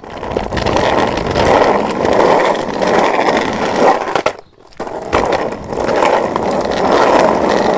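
Skateboard wheels rolling along pavement, a steady rumble. The rolling drops out for about half a second just past four seconds in, then picks up again.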